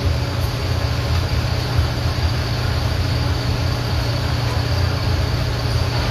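Car engine running steadily: a constant low hum with faint steady tones above it.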